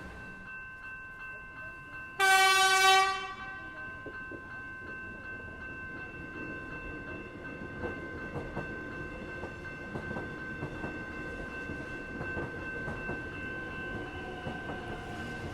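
Melbourne suburban electric train sounding one short horn blast about two seconds in, the loudest sound here. It then runs on with scattered wheel clicks over a steady rumble, against a steady high-pitched ringing tone.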